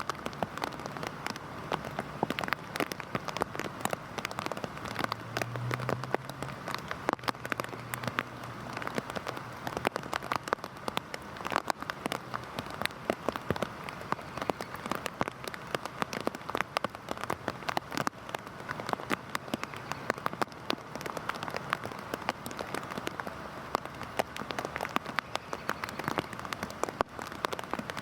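Heavy rain falling steadily on a hard surface, with many sharp individual drop hits close by over a dense hiss.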